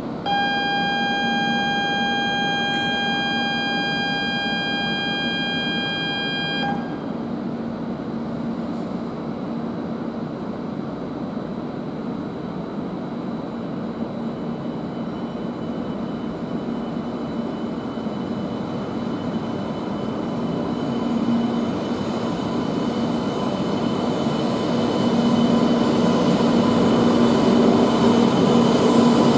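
E2 series Shinkansen at a station platform: a steady electronic tone with overtones sounds for about six seconds, then the train's running noise continues. A thin high whine joins about halfway in, and the noise grows louder near the end as the cars move past.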